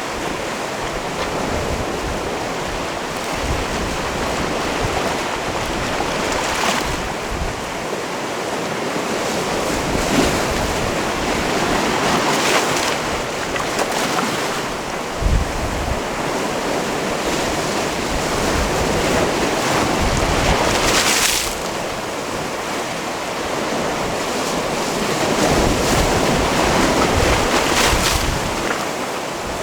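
Sea waves washing onto a rocky shore, a continuous wash of surf that swells and eases every few seconds, with a brief low thump about halfway through.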